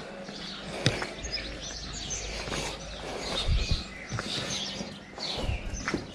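Small birds chirping and singing, with a sharp click about a second in and a low thump in the middle.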